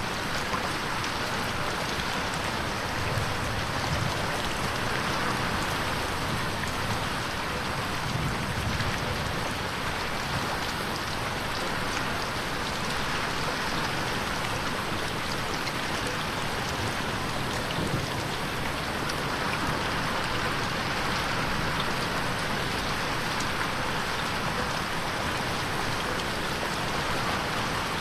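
Steady rain pattering against a window pane, a continuous hiss of many fine drop ticks.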